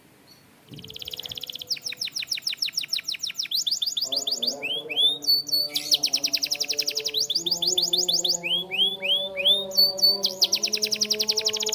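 Canary singing: fast trills of rapidly repeated notes and sweeping high phrases, starting about a second in after a short pause. Soft background music with held notes comes in underneath about four seconds in.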